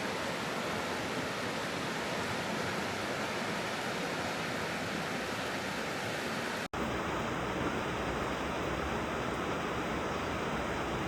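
Steady rush of falling or flowing water. About two-thirds through it cuts out for an instant and resumes with a deeper rumble.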